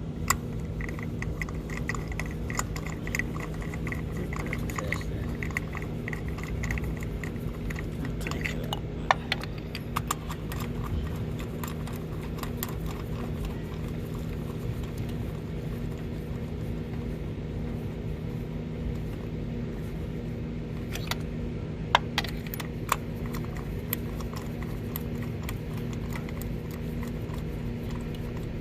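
Hand tools clicking and clinking on the engine, most likely a socket ratchet tightening parts during the tune-up. The clicks come in runs over the first several seconds and again later on, over a steady low hum.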